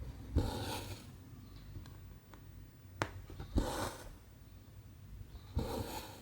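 Needle and cotton thread being pulled through cross-stitch canvas: three short rasping swishes about half a second long, each starting with a small click, with a few light needle clicks in between.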